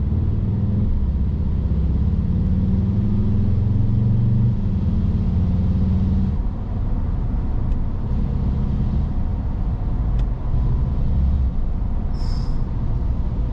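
The 2016 VW Jetta GLI's 2.0-litre turbocharged four-cylinder EA888 gen 3 engine is running under load, its pitch climbing for about six seconds before it eases off. A faint steady whine rides on top, which the owner suspects may be a turbo problem.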